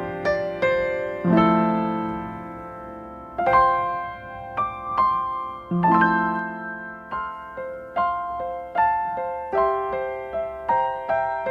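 Background piano music: slow, sustained chords at first, then quicker single notes, each struck and fading away.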